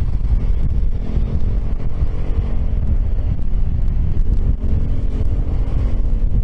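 Piaggio X10 maxi-scooter's engine and exhaust running at a steady low speed in slow traffic, with wind buffeting the helmet microphone.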